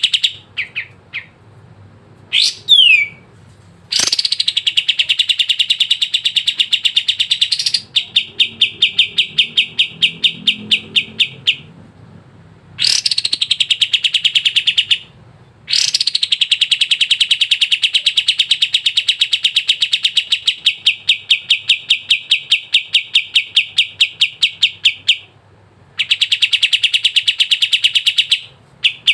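Kapas tembak songbird singing in long, rapid, high-pitched rattling trills lasting several seconds each, broken by short pauses, with a brief sliding whistle near the start.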